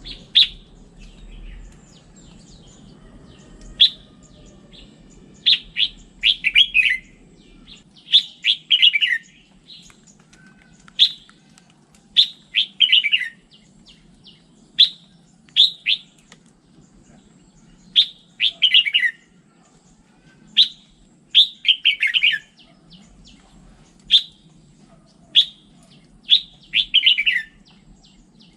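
Red-whiskered bulbul singing: short, loud whistled phrases repeated every second or two, some sliding down in pitch at the end, over a faint low hum.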